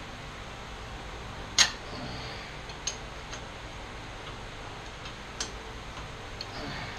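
Sharp metallic clank about a second and a half in, then a few lighter clicks, as band saw parts are worked loose by hand over a steady low hum.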